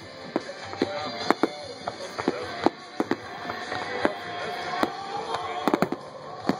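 Aerial fireworks shells bursting: a dozen or so sharp bangs at uneven intervals, several coming close together near the end.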